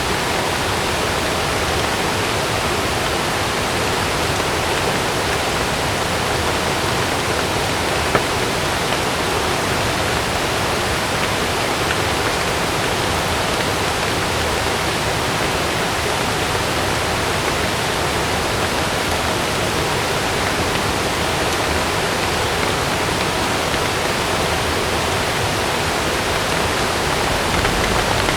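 Heavy rain falling steadily on a camping tent, an even rushing hiss with no breaks, and a single small tick about eight seconds in.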